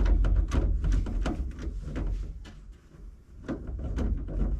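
Quick, irregular clicks and light knocks of hardware being handled, over a steady low rumble, thinning out about three seconds in before a few more knocks near the end.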